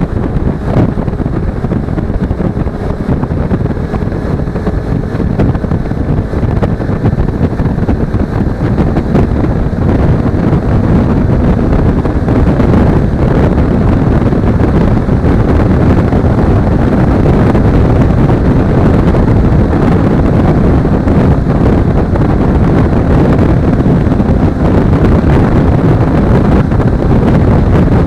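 Wind buffeting an action camera's microphone while riding a Suzuki V-Strom 250 motorcycle, its parallel-twin engine droning underneath. The rumble grows louder about ten seconds in.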